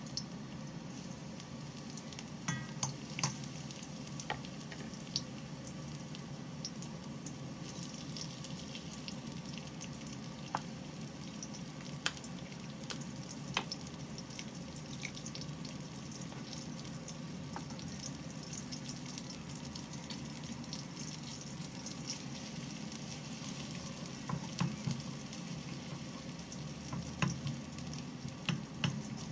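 Sliced red onion and garlic sizzling in hot oil in a wok, with scattered sharp pops of spattering oil. Near the end a wooden spatula stirs the pan, adding clusters of louder knocks and scrapes against the wok.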